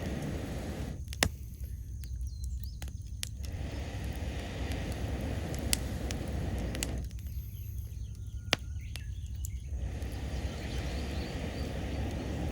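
Wood campfire crackling, with sharp pops over a steady low rush; the loudest pops come about a second in, near six seconds and about eight and a half seconds in. Faint bird calls sound in the background.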